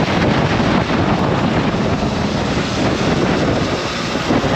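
Wind rushing over the microphone of a riding camera, with road and traffic noise, as the electric mini dirt bike moves along the street.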